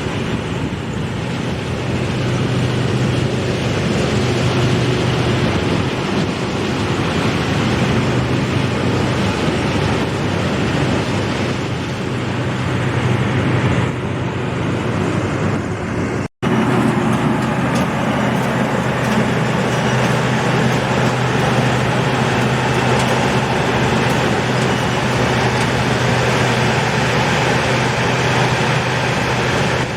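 Combine harvester running steadily: a constant engine hum under a dense, even mechanical noise. The sound cuts out for an instant a little past halfway and comes straight back.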